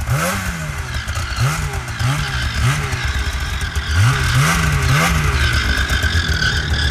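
Snowmobile engine idling with about seven quick throttle blips, each revving up and falling back, in two bunches about two seconds apart.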